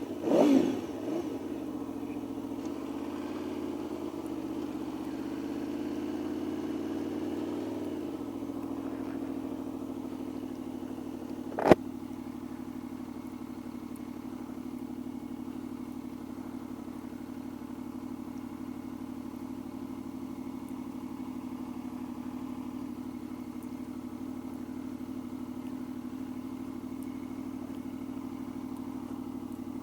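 A 2014 Aprilia Tuono V4's V4 engine idling steadily, with a brief louder burst at the start. A single sharp click sounds about twelve seconds in.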